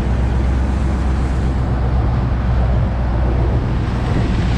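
Khlong Saen Saep canal passenger boat under way at speed: its engine drones steadily, with wind and water noise over it.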